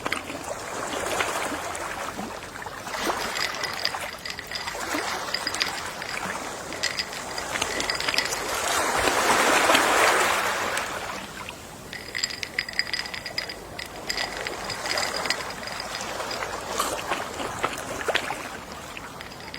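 Gentle sea waves washing on a shore, with one wave swelling and breaking about halfway through before easing off. Many small clicks run through the wash.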